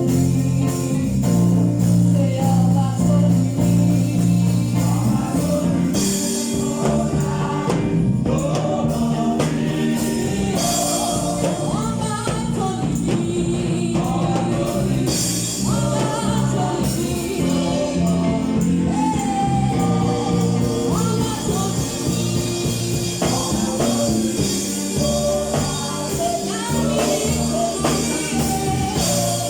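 A gospel choir singing with instrumental backing of sustained low notes.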